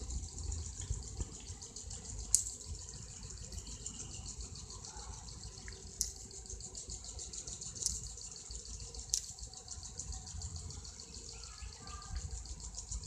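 Outdoor nature ambience: a steady high-pitched rapid pulsing over a low rumble, broken four times by sharp clicks.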